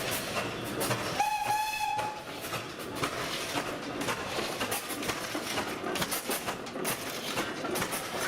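Working steam beam engine's machinery clicking and clanking, with one short whistle blast lasting under a second about a second in.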